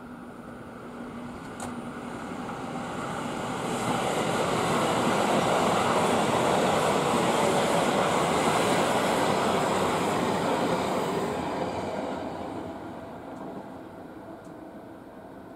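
Electric trains passing on a double-track line: the rumble of wheels on rail builds over about four seconds, stays loud for about seven, then fades away.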